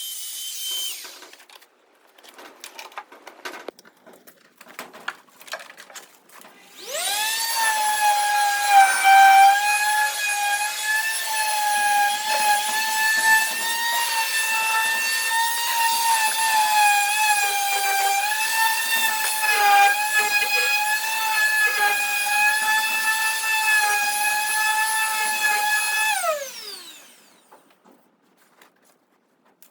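An electric power tool's motor spins up to a high whine about seven seconds in and runs for about twenty seconds, with small dips in pitch and light knocks underneath. It then winds down in a falling whine. Before it starts there are scattered knocks and clicks.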